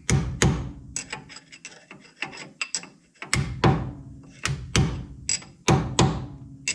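Hammer striking a metal punch over and over, driving a part into place; sharp metallic blows with a short ring, loosely paced at about two a second.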